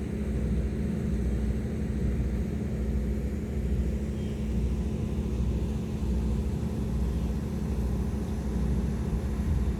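High-speed passenger boat's engines running steadily: an even low drone with a constant hum.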